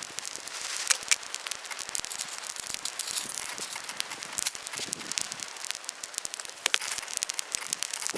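Bonfire crackling, with many sharp irregular pops over a steady hiss.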